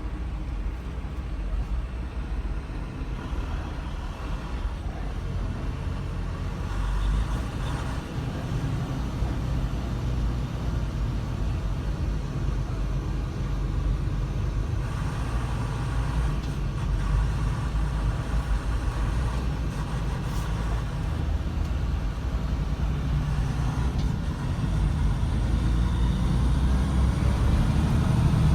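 Steady low rumble of motor vehicle engine and road noise, slowly growing louder toward the end.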